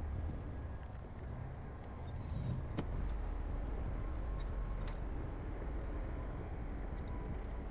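Heavy earthmoving machinery's engine running with a steady low rumble, with two short sharp clicks about three and five seconds in.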